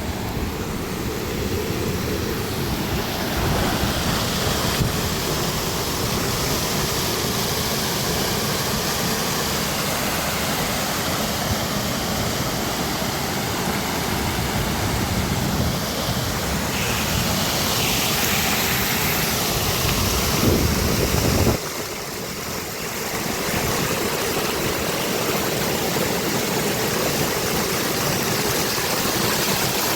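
Steady rush of floodwater and heavy rain. A deep rumble underneath drops away abruptly a little over two-thirds of the way through, and the rushing goes on.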